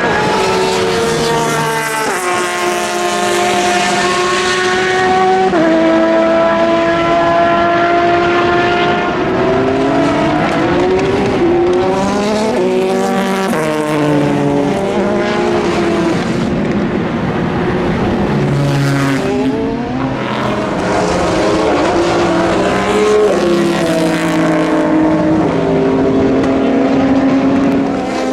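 Several endurance racing cars going by at speed, their engine notes overlapping and rising and falling in pitch as they shift gear and pass.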